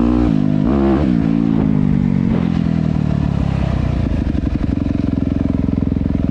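Dirt bike engine running under throttle, its pitch rising and falling for the first few seconds, then settling to a steady, lower, pulsing run from about halfway through.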